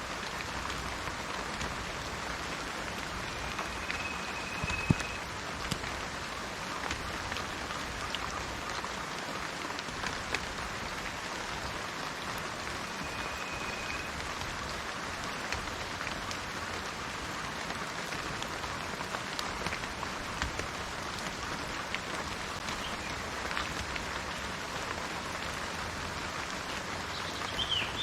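Steady rain falling on garden plants and trees, with many small drips pattering through it and one sharp tap about five seconds in. A thin high whistle sounds twice briefly, and a short chirp comes near the end.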